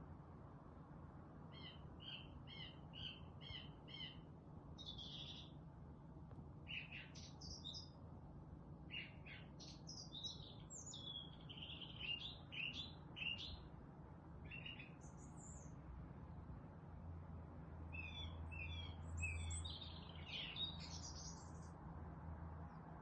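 Songbirds chirping and singing: a quick run of about six repeated notes a couple of seconds in, then assorted short phrases and trills, over a faint low steady hum.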